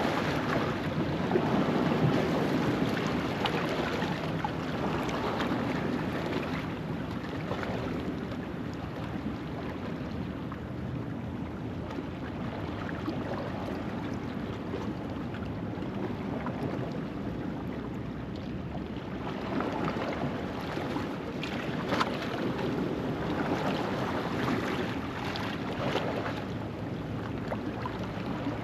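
Ocean waves washing over a rocky shoreline at low tide: a continuous rush of surf that swells louder in the first few seconds and again past the middle, with a few short sharp splashes.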